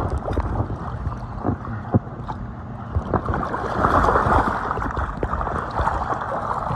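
Choppy lake water splashing and sloshing around an inflatable raft, with scattered small knocks. The splashing swells louder about four seconds in.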